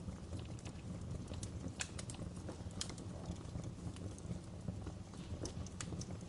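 Wood fire crackling in a fireplace: irregular sharp snaps and pops over a low, steady rumble of the burning logs.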